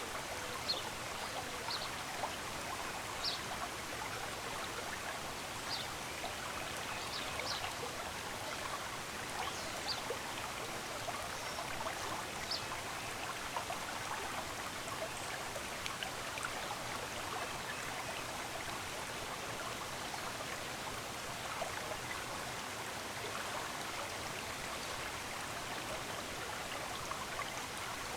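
Water of a stream running steadily. A bird gives short high chirps several times during the first half.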